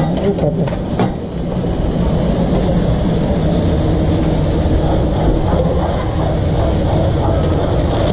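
Steady, loud mechanical running noise with a low hum, typical of the machinery in a working food truck kitchen; a few light clicks come in the first second.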